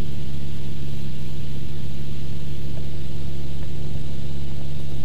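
Cessna 172's piston engine and propeller droning steadily in cruise, heard from inside the cabin as an even, unchanging hum.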